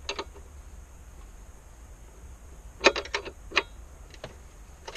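Metal hand tools clinking as a 12 mm wrench is picked out: one clink at the start, then a quick cluster of four or five clinks and knocks about three seconds in.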